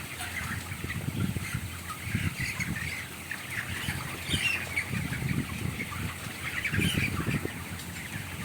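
A large flock of 25-day-old chickens in a crowded poultry house, many birds calling at once in a constant overlapping chatter, with repeated bursts of low rustling from the flock.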